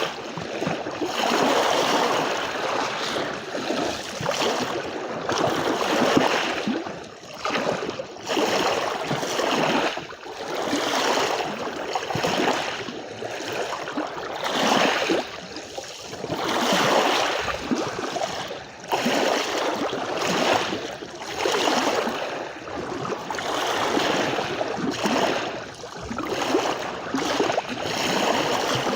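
Small sea waves washing onto a beach, in ragged surges that swell and fall back every second or two.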